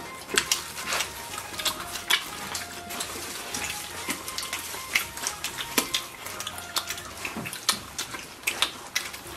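Close-up eating sounds of roast lamb being chewed and gnawed off the bone: an irregular run of wet lip-smacks and mouth clicks.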